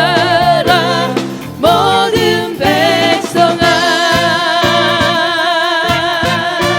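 A church choir's concert recording: singing with instrumental accompaniment, ending on a long note held with vibrato from about halfway in.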